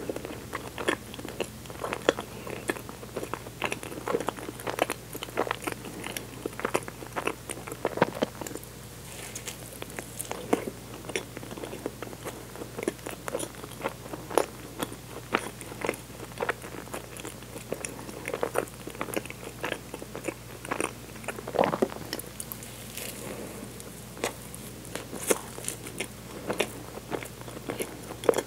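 Close-miked chewing of a soft nama dorayaki filled with red bean paste and cream: bites and a steady run of small wet mouth clicks and smacks, several a second.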